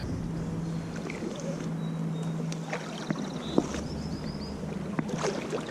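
Water sloshing and lapping around a float tube as it is paddled along, with a few soft knocks.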